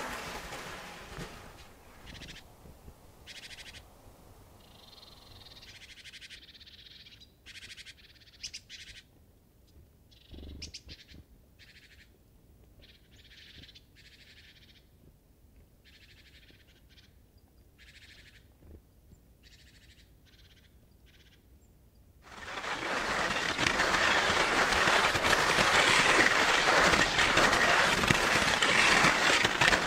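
Short, scattered high chirps of small birds over a quiet background, then about three-quarters of the way in a loud, steady rushing hiss comes in abruptly and covers everything.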